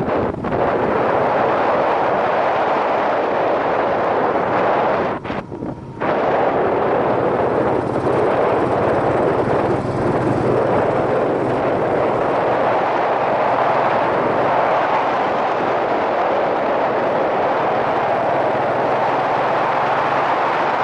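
Yamaha SRX400 single-cylinder engine running under way, with a heavy wind rush over a helmet-mounted microphone; the sound drops away briefly about five seconds in.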